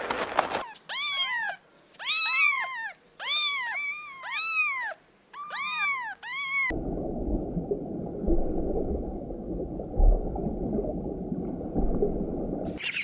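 A domestic cat meowing about six times in quick succession, each call rising and then falling in pitch. Then a low, steady rumble for about six seconds.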